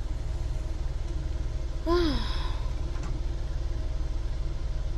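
Small car's engine idling steadily, heard from inside the cabin. About two seconds in comes one short voice sound, like a sigh, falling in pitch.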